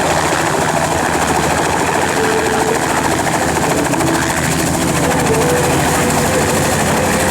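Helicopter in flight: loud, steady engine and rotor noise with a fast, even rotor beat.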